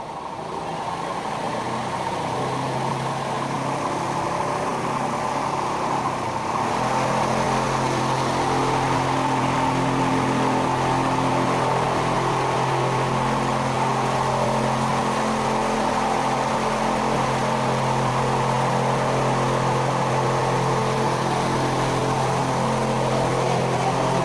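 Film-set rain machine running: a steady motor drone under a broad hiss of spraying water. It builds over the first several seconds, then holds level.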